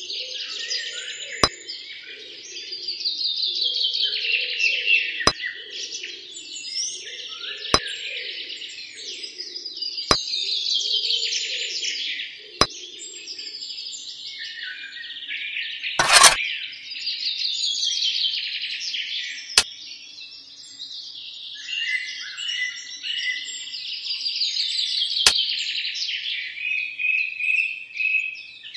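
Songbird singing a falling, trilling phrase that repeats every several seconds, over a faint steady background. Sharp single clicks come every few seconds, the loudest about halfway through.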